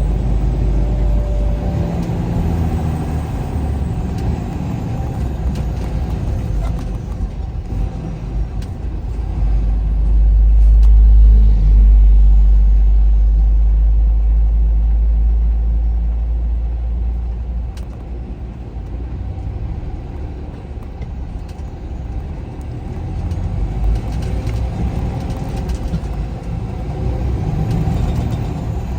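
A vehicle driving along a highway: steady engine and road rumble, with a low drone that grows louder for several seconds around the middle before easing back.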